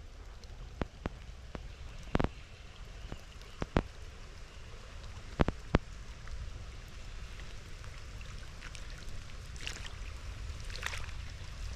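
Raindrops striking close to the microphone in a handful of sharp, separate ticks, then a denser, softer patter after about nine seconds, all over a steady low rush of rain.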